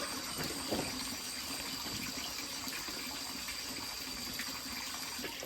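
Steady rush of running water, with a few faint knocks and a thin steady high whine over it.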